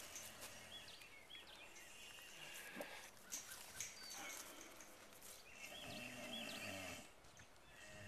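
Quiet rural background with a faint, distant cow lowing about six seconds in, lasting about a second.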